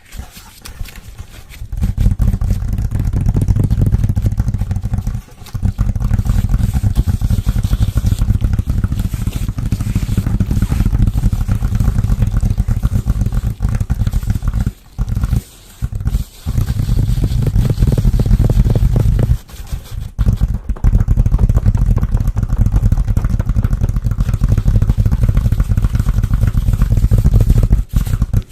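Fast, continuous close-miked ASMR scratching, heavy in the low end, that pauses briefly a few times.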